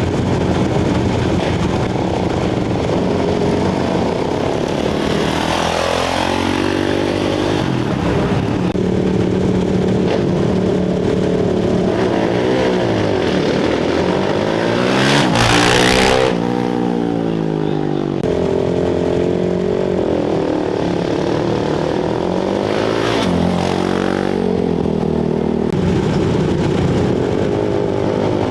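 Off-road racing motorcycles at a race start: engines running steadily, with bikes revving up and accelerating away past the microphone several times, the loudest pass about fifteen seconds in.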